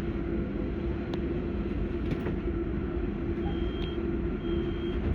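Inside an AM class electric train standing at a station: a steady low hum and rumble from the train's equipment. From about three and a half seconds in, a high beep repeats about once a second, the door warning signal.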